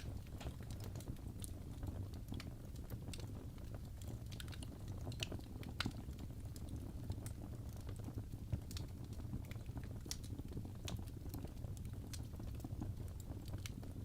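Wood fire burning in a fireplace: a low rumble with irregular sharp crackles and pops from the burning logs.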